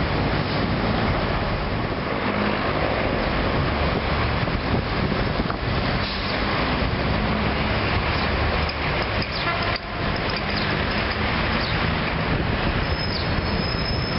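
City street traffic: a steady, dense mix of vehicle engines and tyre noise with no single vehicle standing out.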